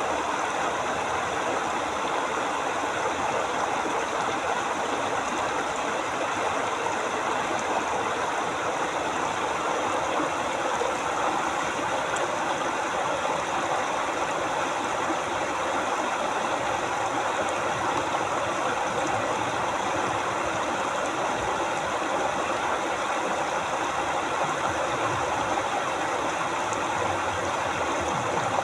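River water flowing over a forest streambed, a steady even rush without changes.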